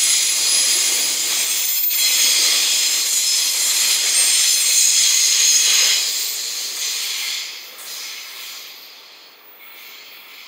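Container flatcars of a freight train rolling past on the rails, the wheels making a loud, steady hiss on the track. The sound fades after about six seconds as the last wagons go by and the train draws away.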